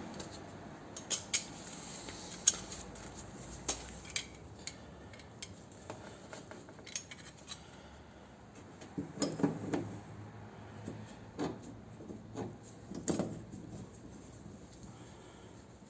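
Scattered light clinks and clicks of small tools and objects being handled and set down, followed later by a few clusters of duller knocks.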